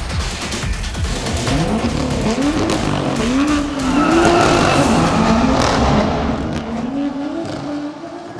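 BMW M2 Coupé's turbocharged straight-six engine driven hard, its pitch climbing and dropping repeatedly through the gears, fading away near the end.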